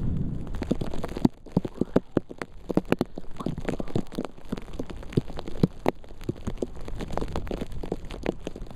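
Wind-blown snow pelting the camera and microphone in a rapid, irregular patter of sharp ticks. A low wind rumble fades about a second in.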